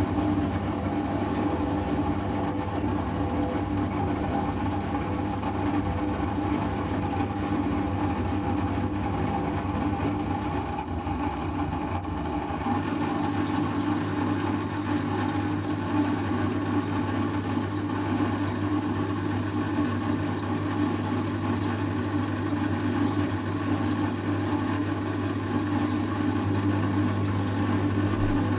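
Servis Automatic M3008B washing machine on its 800 rpm intermediate spin, the motor and drum running with a steady hum. About 13 seconds in the low hum changes as the spin settles to a new speed.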